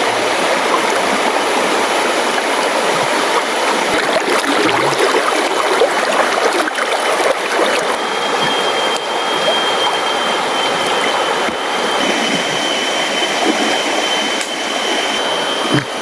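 Clear mountain river rushing over rocks, a steady wash of running water. About halfway through, a thin, steady high tone joins it.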